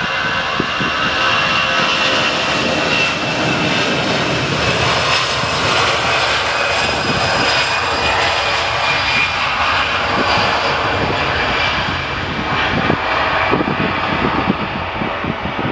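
Airbus A319 airliner's twin jet engines at takeoff power on departure: a loud, steady roar with a high whine running through it, easing slightly near the end.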